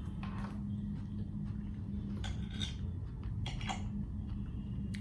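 Cutlery clinking and scraping against a plate in a few short clatters while eating breakfast, over a steady low hum.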